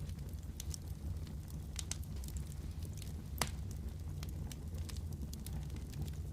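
Fire crackling in a fireplace: scattered snaps and pops over a steady low rumble, with one louder pop about three and a half seconds in.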